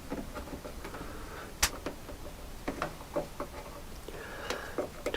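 Small parts and wire being handled by hand: scattered light clicks and taps, with one sharper click about one and a half seconds in.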